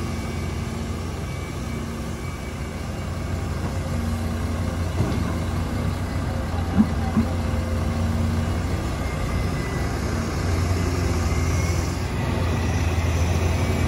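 Heavy diesel engine running steadily with a low drone, a couple of short knocks about five and seven seconds in, getting a little louder near the end.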